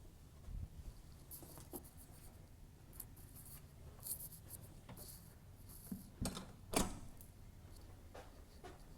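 Small items being handled and put into a bag: light rustling and scraping with a few soft knocks, the loudest about six and a half seconds in.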